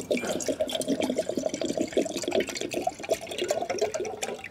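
Water being poured steadily into a metal mess tin, a continuous splashing gurgle.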